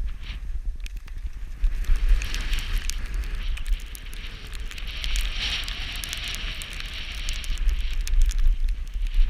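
Wind buffeting the microphone with a steady low rumble, over the hiss and scrape of skis on snow that swells and fades as turns are made, with scattered sharp clicks.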